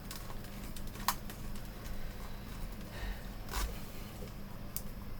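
A few light clicks and taps from a screwdriver and plastic monitor casing parts as screws are put back in, over a steady low hum. The sharpest click comes about a second in.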